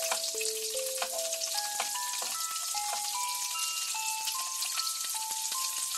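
Zucchini fritters sizzling in hot oil in a frying pan, a steady crackling hiss, under background music: a simple melody of single notes that step up and down.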